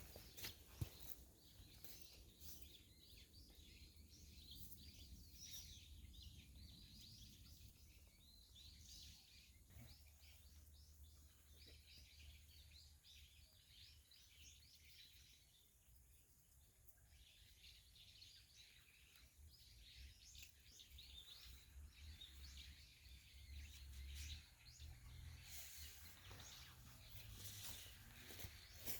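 Faint outdoor ambience: small birds chirping on and off over a low steady rumble.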